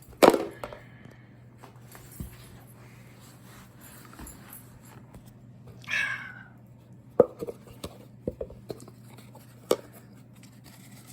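Plastic knocks and clicks from the parts of a Bissell Featherweight stick vacuum being handled, its filter and dust cup taken out and cleaned with the motor off. The loudest is a sharp knock just after the start, with scattered clicks later. A short falling squeak comes about six seconds in, over a steady low hum.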